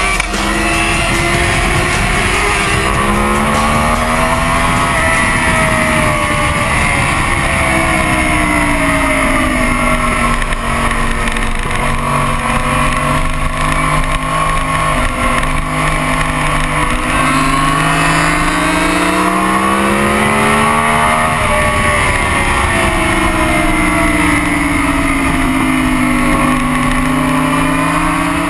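Yamaha inline-four sport bike engine at track speed. Its pitch rises and falls slowly over several seconds as the rider opens and closes the throttle through the corners, with a few quick steps in pitch from gear changes.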